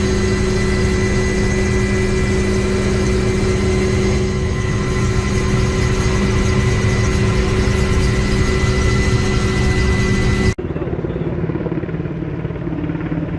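Helicopter turbine and rotor running steadily. About ten and a half seconds in, the sound cuts off abruptly and a quieter, lower engine hum takes over.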